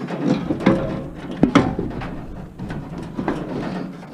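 Irregular metal clanks and rattles from handling parts of a scrapped appliance while working its motor loose, with a couple of sharper knocks about a second and a half in.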